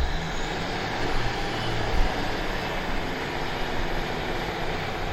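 Class 150 diesel multiple unit running close by at the station: a steady, loud rumble of engine and wheels on the rails.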